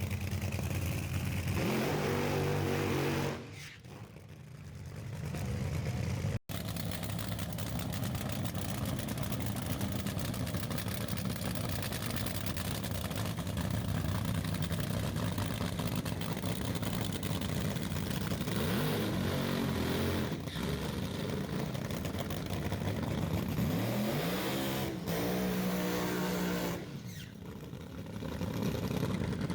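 Fuel altered dragster's engine running rough at low speed, blipped up in pitch twice, once about two-thirds of the way through and again shortly after.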